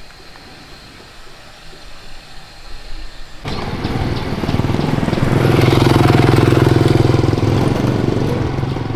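A motorcycle engine starts abruptly about three and a half seconds in and keeps running steadily, growing louder from about five seconds.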